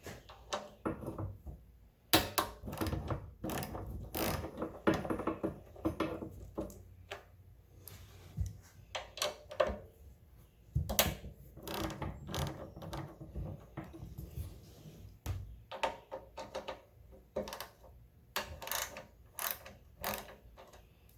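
Hand tools working on the metal parts of a Honda trash water pump during disassembly: irregular runs of sharp metallic clicks and clanks, coming in dense flurries with short pauses between.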